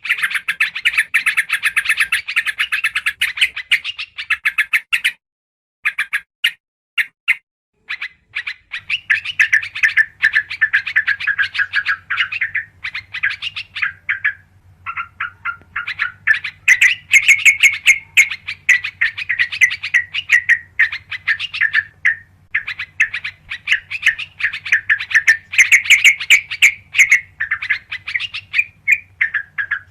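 Yellow-vented bulbul (trucukan) song: runs of rapid, bubbly chirping notes with short breaks, the kind of call played as a lure to draw these birds in.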